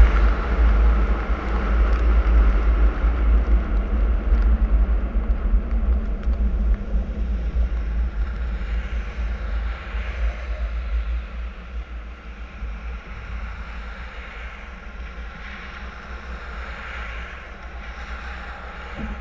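Car driving on a snowy road: a steady low rumble of road and engine noise that eases off about halfway through, as the car slows.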